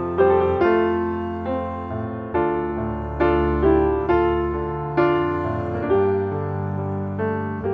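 Background piano music: a slow melody of struck notes, each fading before the next.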